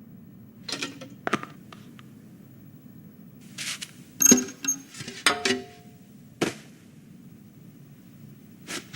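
Foley of small tools and objects being handled in a toy repair: scattered clicks, clinks and light rattles, with a short metallic ring about five and a half seconds in, over a low steady hum.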